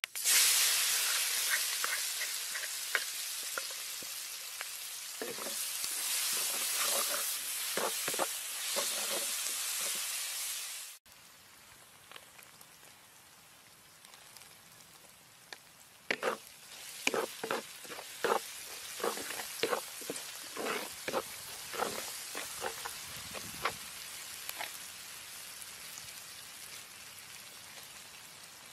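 Chillies frying in hot oil in a wok. A loud sizzle starts suddenly at the outset and slowly fades, then breaks off about eleven seconds in. After that a quieter sizzle goes on while a spoon scrapes and knocks against the pan in a quick run of clicks.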